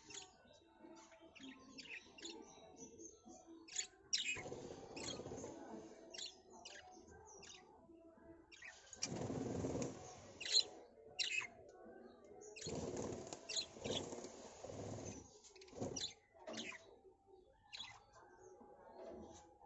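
Birds giving many short, high chirps, broken by three stretches of rushing noise lasting two or three seconds each.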